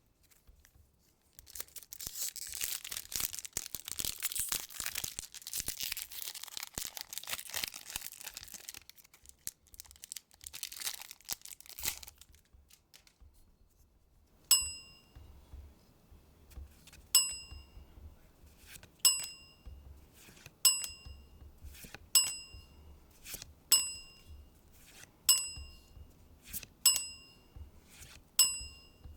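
Lorcana booster pack wrapper being torn open and crinkled for several seconds, with a few small clicks after. Then, about halfway through, a bright ringing ding begins and repeats about every one and a half seconds, roughly ten times.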